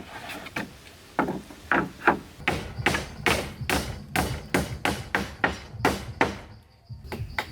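A tool striking wood again and again, a few spaced blows at first, then a quick regular run of about four blows a second, with a brief pause near the end.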